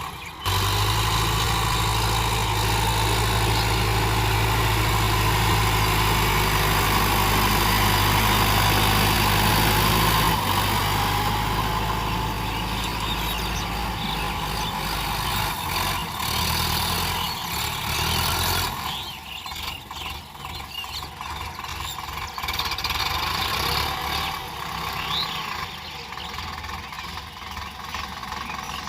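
Tractor engine running steadily. It eases off after about ten seconds and turns noticeably quieter about two-thirds of the way through.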